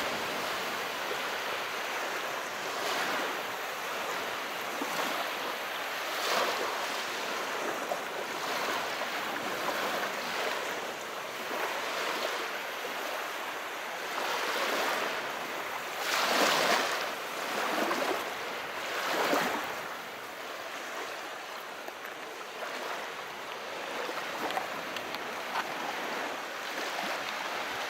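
Calm sea waves washing ashore: a steady hiss of surf that swells and eases every few seconds, with the strongest waves about two-thirds of the way through.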